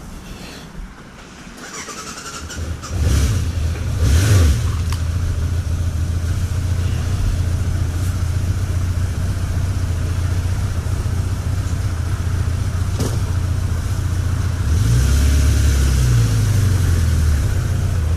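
Motorcycle engine coming in about three seconds in, revving up briefly, then running steadily, with its pitch sliding up and down again near the end.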